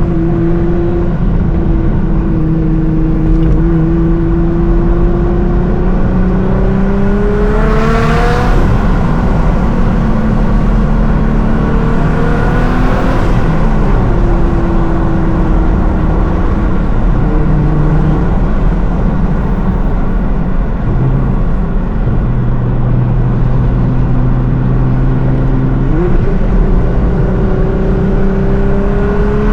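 Tuned 750 hp Nissan R35 GT-R's twin-turbo 3.8-litre V6 on the move, mostly cruising at a steady engine note. The pitch climbs under acceleration about eight seconds in, ending in a short rushing burst, and climbs again near the end.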